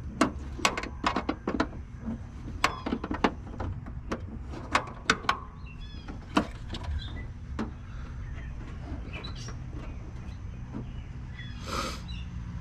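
Irregular clicks and knocks of hard plastic parts being handled and worked, thickest in the first half and sparser later, over a steady low hum. The parts are a car running-light housing and its stripped plastic threaded fasteners, which turn without coming loose.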